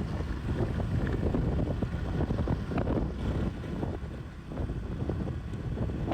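Wind buffeting the microphone of a motorcycle on the move: a loud, uneven low rush that eases briefly about two-thirds of the way through.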